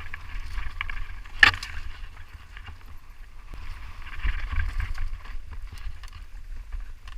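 Wind rumbling on the microphone over steady crunching and rattling of movement across rough ground, with scattered clicks and one sharp knock about a second and a half in.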